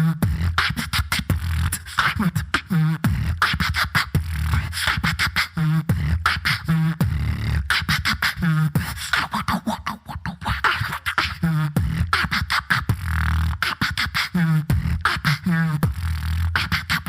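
Solo beatboxer performing live: a dense, steady rhythm of vocal bass kicks and sharp snare and hi-hat clicks, woven with wavering pitched vocal sounds.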